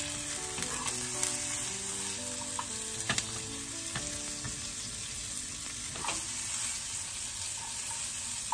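Diced chicken, boiled carrot and potato and corn sizzling steadily with a pat of melting butter in a nonstick frying pan, stirred with a silicone spatula that now and then clicks against the pan.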